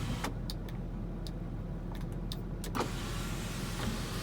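Land Rover Discovery 3's electric sunroof motor working the glass panel through its tilt-and-slide travel, with sharp clicks from the mechanism over a steady low hum in the cabin. The last and loudest click comes a little under three seconds in, and from then on a fuller hiss takes over.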